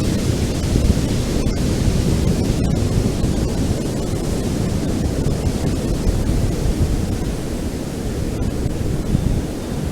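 Ocean waves breaking and washing on a beach in a steady, unbroken roar, with most of the sound low and rumbling.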